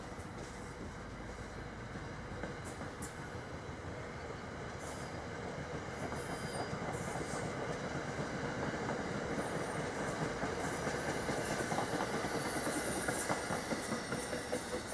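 Passenger trains passing at speed: a steady rumble of wheels on rail with clicking over the rail joints. It grows louder in the second half as a NJ Transit electric multiple-unit train goes by close, with a few brief high-pitched wheel squeaks.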